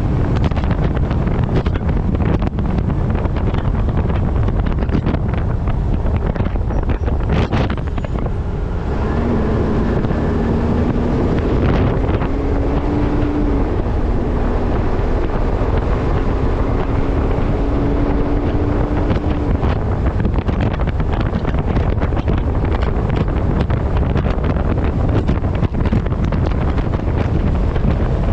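Heavy wind noise buffeting a microphone on the front of a moving truck, with road and vehicle rumble underneath. A steady hum comes in about nine seconds in and stops about ten seconds later.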